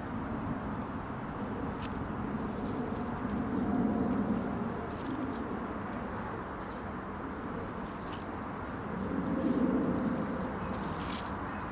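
Low bird cooing twice, once about four seconds in and again about nine seconds in, with a few faint high bird chirps over a steady outdoor background.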